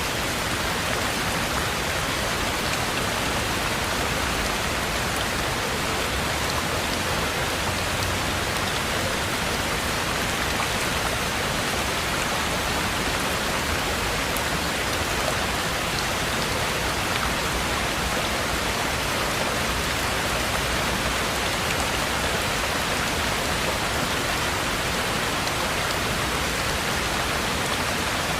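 Heavy rain falling steadily on a cabin roof and surroundings, a dense even hiss with scattered drop ticks.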